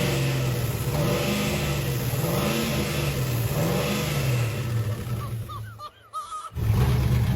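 Engine running with Flex Seal in place of its head gasket, blipped up and back down about once every second and a bit. The sound cuts out briefly about six seconds in, then the engine comes back running steadily.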